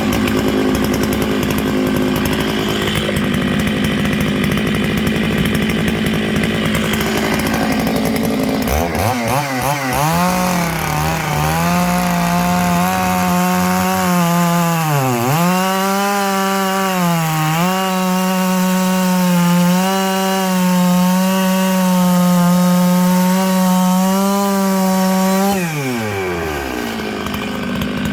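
Stihl MS 660 two-stroke chainsaw ripping dry larch logs lengthwise at full throttle. The engine's pitch sags briefly twice under load in the cut, then winds down near the end as the throttle is released.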